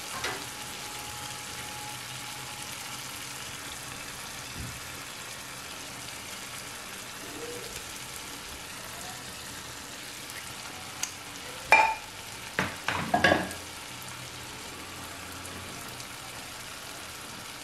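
Tomato and onion masala with boiled eggs sizzling in oil in a pan on a very low flame: a steady hiss. A few sharp utensil knocks on the pan come about twelve to thirteen seconds in.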